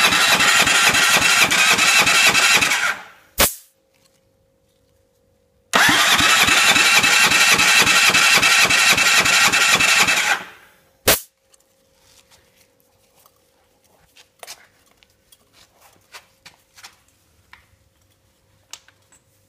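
Hawk engine cranked over by its starter twice, each time for three to four seconds without firing, with a fast, even pulse from the compression strokes, as in a compression test. A sharp click follows each cranking, then faint small clicks and knocks of handling.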